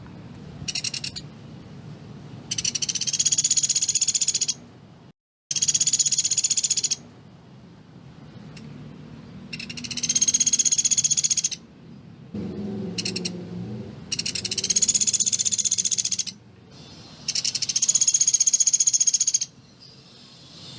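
Pelatuk beras woodpecker calling in dense, rapid-fire bursts: quick high notes run together into a trill about two seconds long. The bursts repeat about six times, with short pauses between them.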